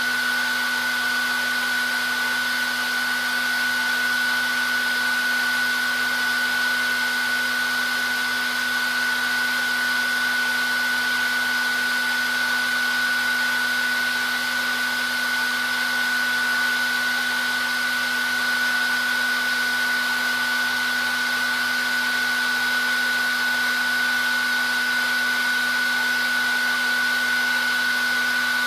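Electric hair dryer running steadily: an even rushing of blown air with a constant high whine and a low motor hum, no change in speed.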